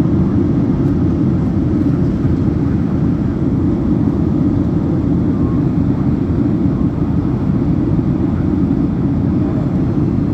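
Steady low rumbling noise with no tones in it, even throughout.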